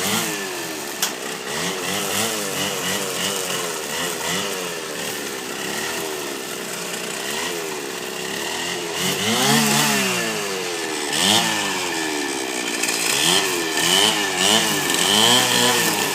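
Stihl FS 420 brushcutter's two-stroke engine running, its throttle blipped so the engine speed rises and falls over and over, about once or twice a second, with a fuller rev about two-thirds of the way through.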